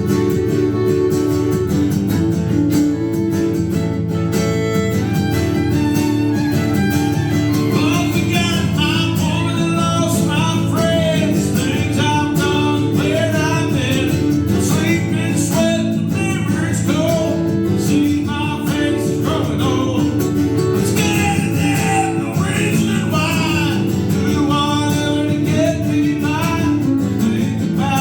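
Live country song with acoustic guitar strumming steadily; a lead melody line comes in over the chords about eight seconds in.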